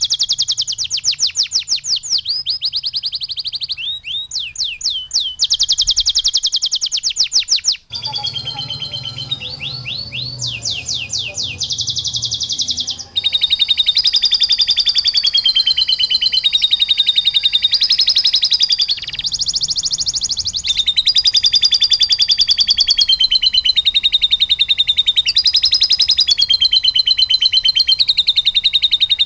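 Domestic canary singing in long tours of rapid, repeated high trills, each tour switching suddenly to a new syllable. The song breaks off abruptly and resumes with a different passage about 8 and 13 seconds in.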